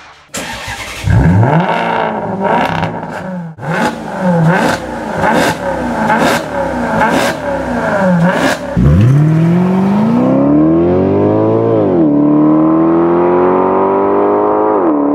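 Maserati GranCabrio's 4.7-litre V8 starting with a sharp flare of revs, then a series of quick throttle blips with sharp exhaust cracks. It then accelerates hard, the pitch climbing steadily, with an upshift drop about twelve seconds in and another near the end.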